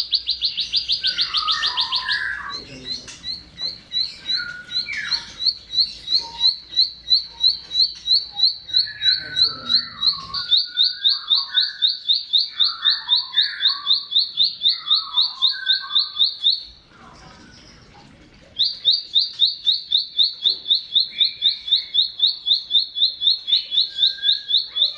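Plain prinia (ciblek sawah) singing: a long run of rapid, evenly repeated high notes, very fast at first, then about five a second, breaking off for about two seconds near the two-thirds point before starting again.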